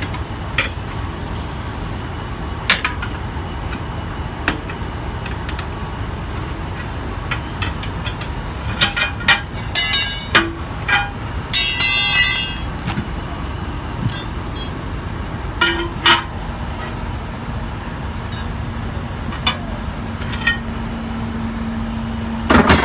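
Metal clanks and knocks over a steady low rumble, with a rapid metallic rattle about halfway through and a steady hum that starts in the last third.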